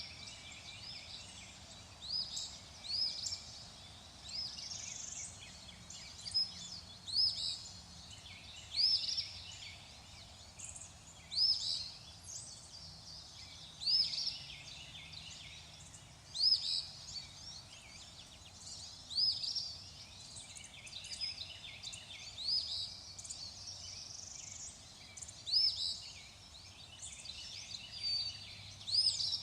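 Birds calling: short, high-pitched chirps repeated every second or two, over a faint steady hiss.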